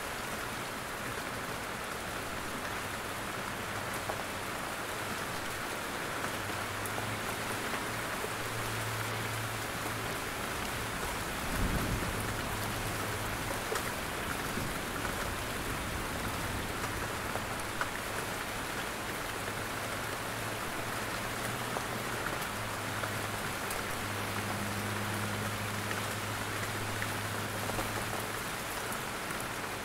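Steady rain falling in a forest, drops pattering down through the trees. About twelve seconds in there is a single short low thump.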